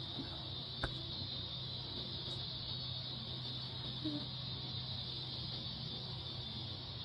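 Syma S100 toy remote-control helicopter's small electric motor and rotor running with a steady high whine over a low hum, with a single click a little under a second in.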